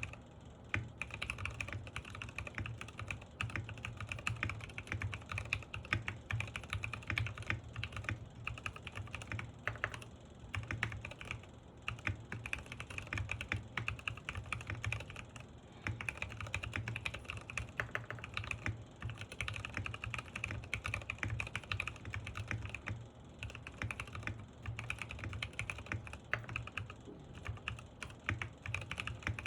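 Steady, fast typing on a mechanical keyboard fitted with Gateron Pro Milky Yellow linear switches, broken by a few brief pauses.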